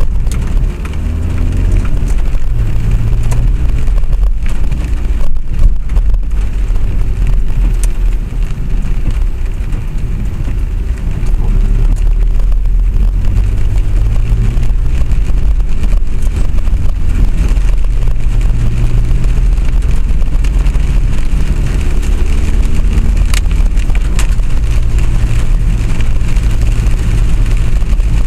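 Vehicle in motion: a steady low running rumble, with a pitched whine that rises and falls a few times as it speeds up and slows down.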